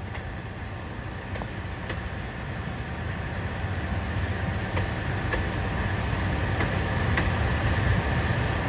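Passenger train carriages rolling past over the station's points and rail joints: a steady low rumble that grows louder, with a few sharp wheel clicks.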